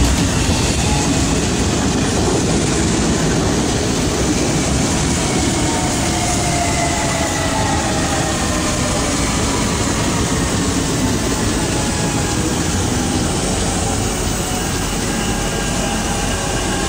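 Electric multiple-unit commuter train passing close by: a steady rumble and clatter of wheels on the rails, with a faint whine that slides gently down in pitch.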